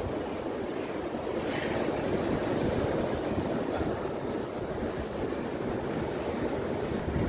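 Steady rush of sea surf with wind buffeting the microphone, a low rumble under it.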